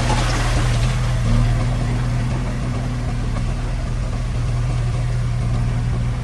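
A heavy construction machine's diesel engine running steadily with a deep, even drone. It is a little louder and noisier for about the first second, then settles.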